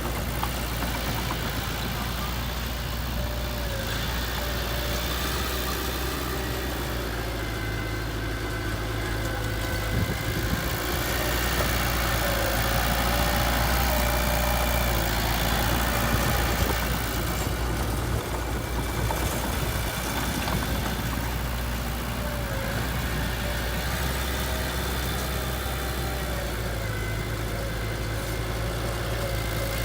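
Heavy machinery's engine running steadily at idle, growing a little louder for a few seconds partway through.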